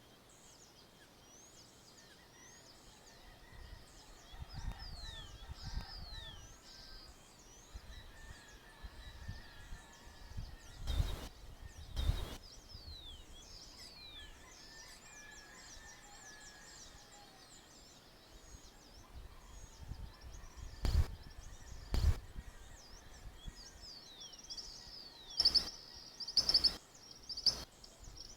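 Dawn chorus of many small birds chirping and calling in quick, overlapping high notes. A few sharp knocks stand out: two close together twice, about ten seconds apart, then three in quick succession near the end.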